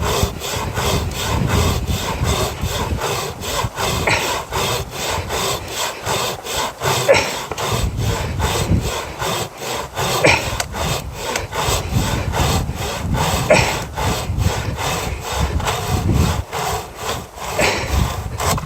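Hand saw cutting through firewood, steady back-and-forth strokes in an even rhythm of about three a second.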